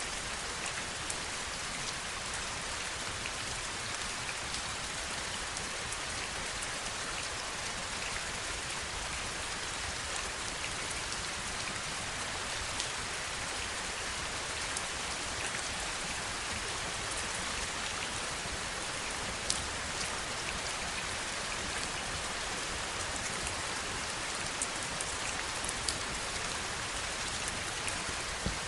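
Steady heavy rain, a dense even hiss with scattered sharper drop ticks standing out now and then.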